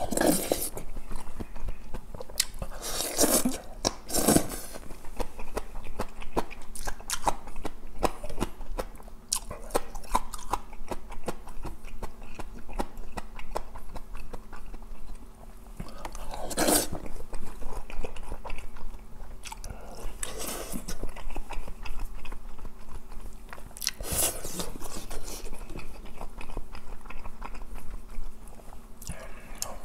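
Close-miked mouth sounds of eating dumpling soup with rice and green onion kimchi: wet chewing and smacking with quick clicks throughout, and a few louder rushing sounds now and then.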